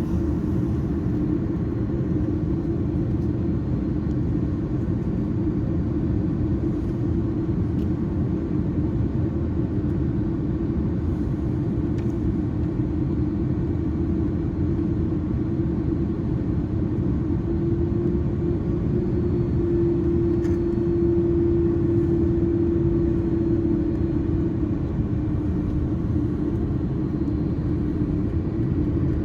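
Steady engine and airflow drone inside the cabin of an Airbus A330-300: a low rumble under a constant hum that swells slightly about two-thirds of the way through.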